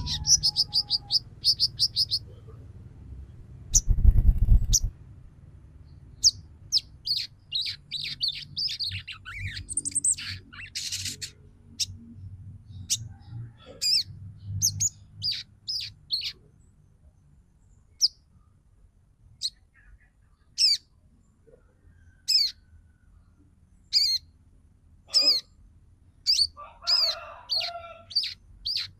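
Female sogon twittering: a fast run of high chirps, then scattered short, downward-sweeping chirps and chattering calls. A loud low thump about four seconds in.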